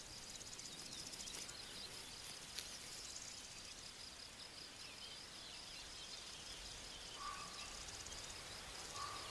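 Faint woodland ambience: a steady high-pitched insect trill with scattered small bird chirps. Short, clear whistled notes, likely a bird, come once and then three times in quick succession near the end.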